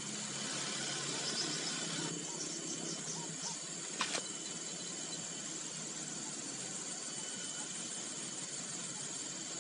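Steady faint hiss of background insects, with one brief click about four seconds in.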